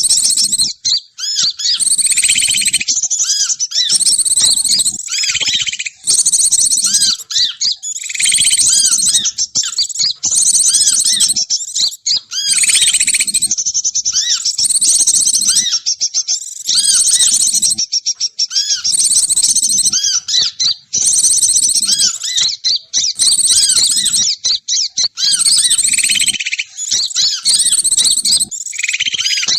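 Bird-lure (pikat) recording of small birds chirping and twittering rapidly, a loud, dense run of high calls with only brief gaps.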